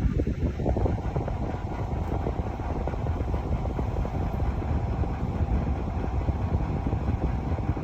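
An Electrolux household appliance running with a steady, rough, rattling low rumble: the abnormal noise it is being recorded for.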